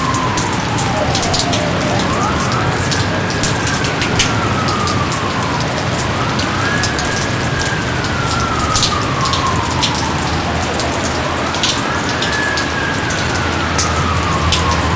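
Steady heavy rain with many distinct drops pattering. Behind it a faint wailing tone rises quickly and then sinks slowly, about three times, like a distant siren.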